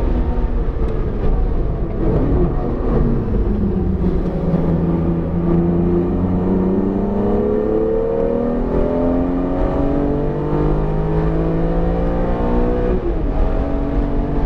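BMW E46 M3's S54 straight-six, freshly rebuilt and still being broken in, driven on track. The engine note falls about two seconds in, then climbs steadily under acceleration for around nine seconds before a gear change near the end drops the revs.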